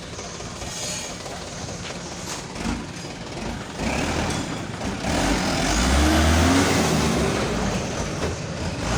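Mitsubishi Canter dump truck's engine running under load on a test drive of its newly replaced clutch disc, getting louder and revving up and down about five seconds in.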